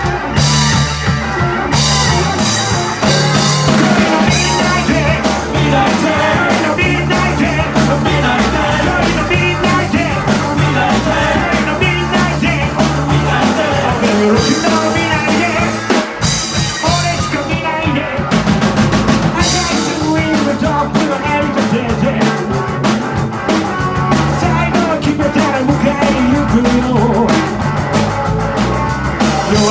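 Live rock band playing an up-tempo song: drum kit and bass guitar driving a steady beat, with a singer's voice over the band.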